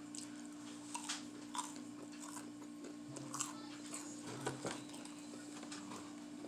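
Fried chicken being chewed close to the microphone: faint, irregular crunches and wet mouth clicks.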